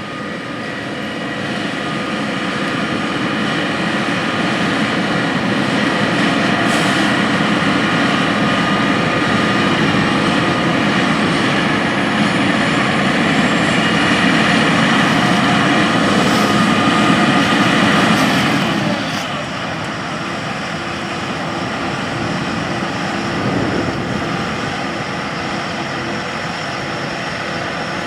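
Tractor engine pulling hard to drive a grain cart's unloading auger, with corn pouring into a semi trailer, a loud steady mechanical drone. About 19 seconds in the noise drops to a lower, steadier running level.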